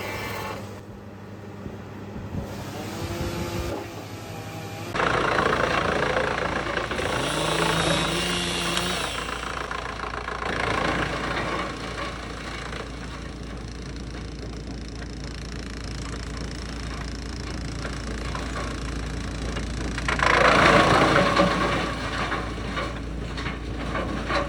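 Wood chipper's engine running steadily, with a louder burst of chipping about twenty seconds in.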